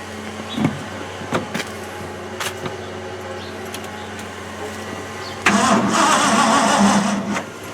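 1989 Ford F-250's 5.8 L Windsor V8 turned over by the starter for about two seconds, beginning about five and a half seconds in, without catching: the engine, unrun for four years, cranks but does not fire. Before that, a steady low hum with a few faint clicks.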